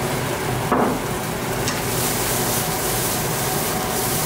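Diced onion sizzling steadily in a non-stick frying pan as it is lightly sautéed.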